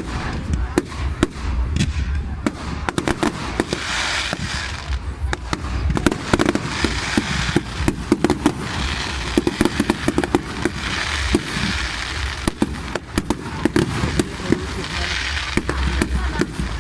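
Fireworks display: sharp bangs in quick succession, with stretches of crackling between them.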